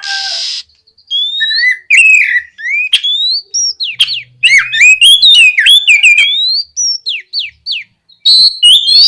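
Oriental magpie-robin singing loudly: a string of clear whistled phrases that slide up and down, broken by short pauses, opening with a brief harsh hissing note.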